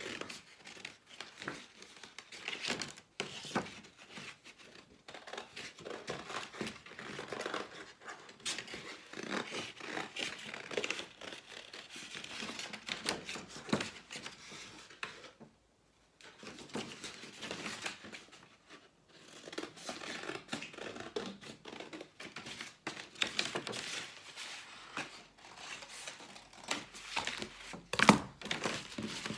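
Scissors cutting through folded thin cardboard: a run of short snipping and crunching strokes with a couple of brief pauses, and one louder knock near the end.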